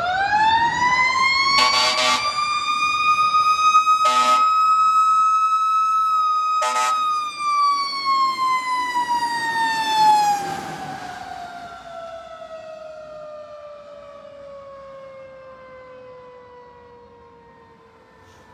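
Federal Q mechanical siren on a fire engine winding up fast to a high wail, holding, then slowly winding down and fading. Three short horn blasts cut in at about two, four and seven seconds.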